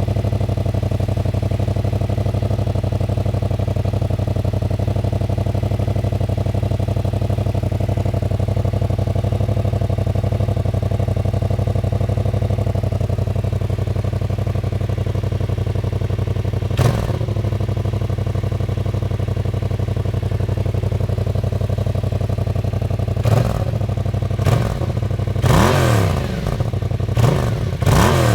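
2016 Yamaha FZ-07's parallel-twin engine idling steadily through its stock exhaust modified with drilled holes, with one quick throttle blip about 17 seconds in and several short revs in a row near the end.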